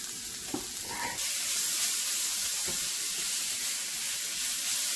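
Grated snake gourd stir-fry sizzling in a nonstick pan over full heat as the last of its water cooks off, with coconut oil just added, while a wooden spatula stirs and scrapes through it with a few soft knocks. The sizzle grows louder about a second in.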